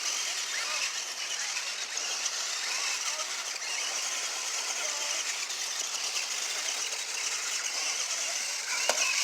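Small electric motor of a toy remote-control monster truck whirring steadily.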